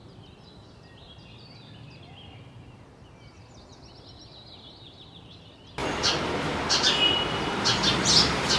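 Small songbirds chirping and twittering faintly over a low hiss. About three-quarters of the way through, the sound jumps suddenly much louder into a noisier outdoor recording with sharp, high chirps.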